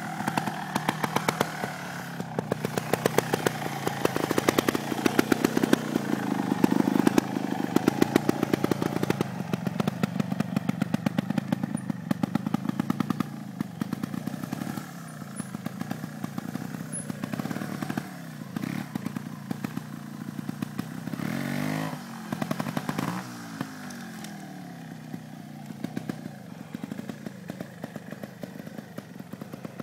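Trials motorcycle engine running at low revs as the bike is ridden slowly, with short throttle blips that rise and fall in pitch, two of them close together a little past the middle.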